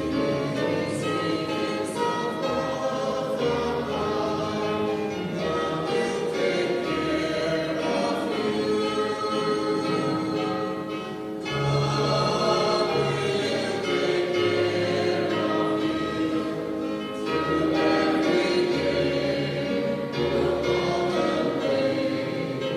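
A choir singing a Christian hymn with instrumental accompaniment.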